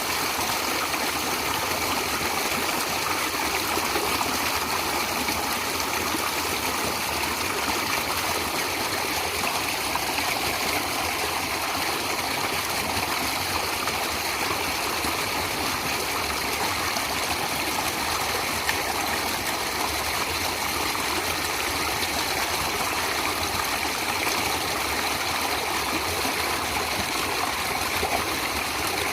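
Water flowing steadily in a natural stream, an even rushing and babbling without pause.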